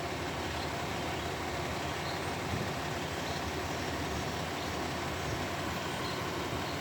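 Excavator engine running steadily: an even, low rumble with a rough hiss over it.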